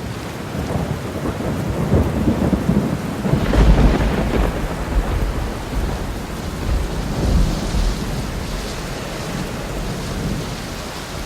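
Heavy downpour hammering steadily, with rolls of thunder rumbling underneath, loudest about four seconds in and swelling again around seven seconds.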